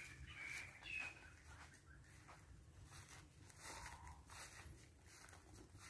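Near silence: quiet outdoor ambience with a few faint, brief bird chirps, mostly in the first second.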